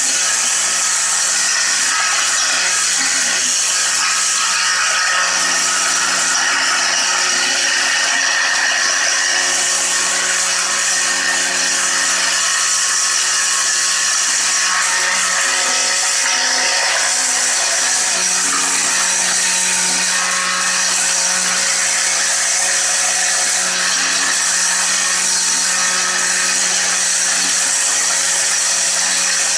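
Electric power tool running continuously, a steady hum under a loud hiss, without pauses.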